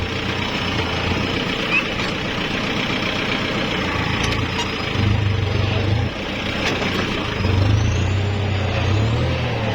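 Kubota farm tractor's diesel engine running steadily, with its note getting louder briefly about halfway and again near the end.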